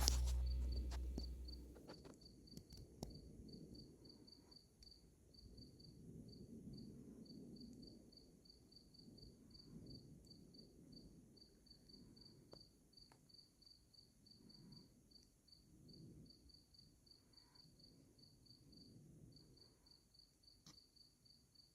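Faint insect chirping, a high-pitched chirp repeated evenly about three times a second.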